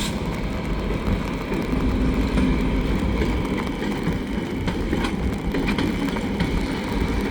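Diesel switcher locomotives, an EMD GP40-2W and GP38-2, running with a steady low engine rumble, with a few light clicks partway through.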